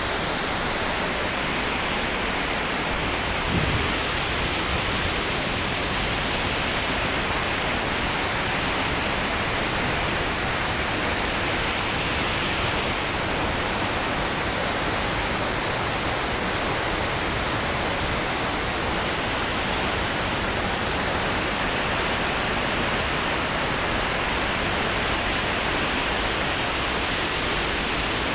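Waterfall falling steadily: a dense, unbroken rush of water. A brief low thump comes about three and a half seconds in.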